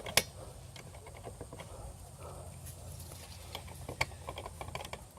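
Sharp metallic clicks and taps of a screwdriver working on the wire terminals of an air-conditioner condenser's electrical connections, the loudest click just after the start and another about four seconds in, over a low steady hum.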